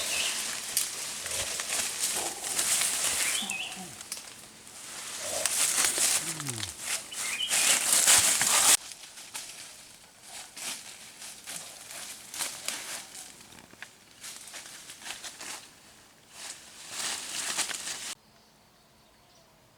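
Rustling and crackling noises with a few short gliding animal or bird calls. The rustling is dense at first, drops sharply about nine seconds in to scattered crackles, and stops suddenly near the end.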